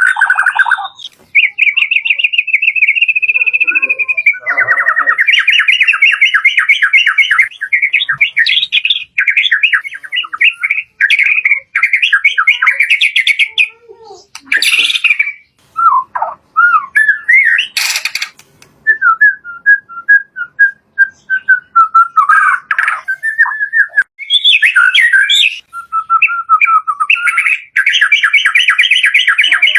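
White-rumped shama (murai batu) singing a loud, varied song of fast trills and rattling phrases, with a run of short repeated whistled notes partway through. There is a single sharp click about 18 seconds in.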